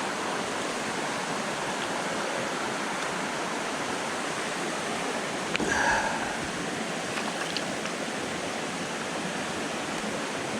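Freshwater jungle creek running over rocks, a steady rush of water. A short sharp click and a brief louder sound come a little past halfway.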